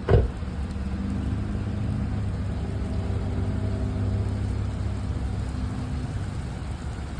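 Thunder in a rainstorm: a sharp crack right at the start, then a low rumble that rolls on for about six seconds and slowly fades, over steady rain.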